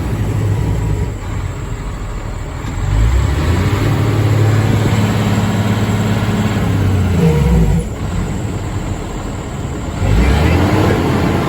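Caterpillar C12 diesel engine in an International truck, running. The engine note comes up about three seconds in and holds, drops back with a falling pitch near the eight-second mark, then comes up again about ten seconds in.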